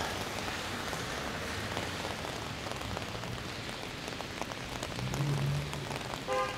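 Heavy rain falling on an open umbrella: a steady hiss with scattered drop ticks. A short low hum joins it about five seconds in.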